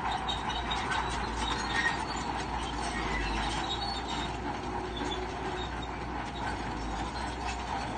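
Crawler bulldozer at work: a steady low diesel engine hum with many small metallic clicks and faint squeaks from its steel tracks.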